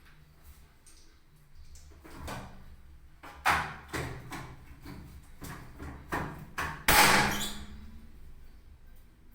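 A series of knocks and clunks from parts of an automatic washing machine being handled during repair. The loudest is a knock with a short scraping clatter near the end.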